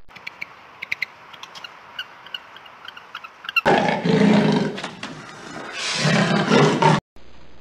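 Faint outdoor ambience with scattered short, high chirps, then a big cat roaring twice, loud, each roar a second or more long, the second cutting off abruptly near the end.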